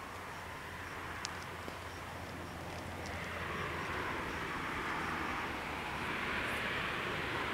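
Rising rumble of an approaching train, growing steadily louder over the second half while the level crossing waits closed. Faint, quick dinging of the crossing bells sounds beneath it early on.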